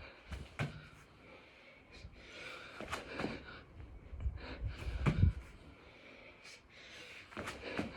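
A man's hard breathing during six-count burpees: short, forceful breaths about once a second. A few dull thuds about halfway through, the loudest just past the middle, fit his body dropping to and pushing off the floor.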